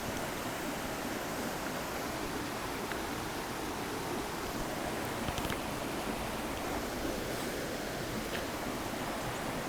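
Steady rush of shallow river current flowing, with a couple of faint clicks about five seconds in.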